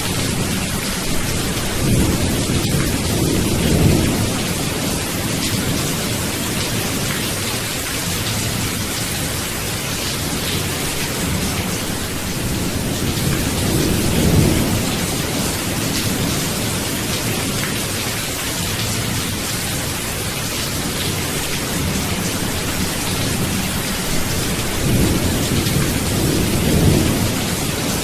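Steady rain hissing, with low rolling thunder swelling and fading three times, a few seconds in, around the middle and near the end.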